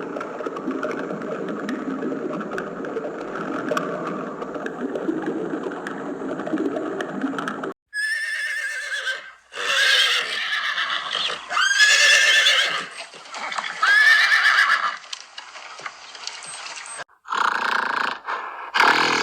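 Animal calls in a run of edited clips: first a steady, dense, noisy din, then, after a sudden cut, four loud, high-pitched calls about two seconds apart, each rising then falling in pitch. Near the end another cut brings in a different, shorter animal sound.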